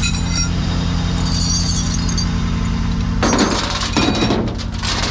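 Truck engine idling steadily, with metal tow chains clinking and rattling in two loud spells a little past three seconds in and again around four seconds.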